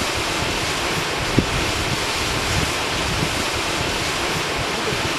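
Steady rushing of a waterfall, with wind buffeting the microphone and a brief bump about a second and a half in.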